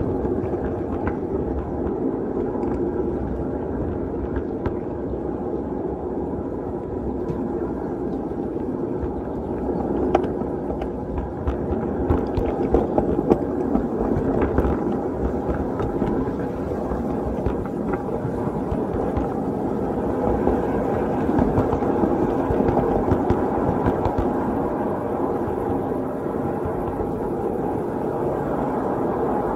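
Small ride-on railroad train rolling along its track: a steady rumble of the wheels on the rails, with a few sharp clicks and knocks around the middle.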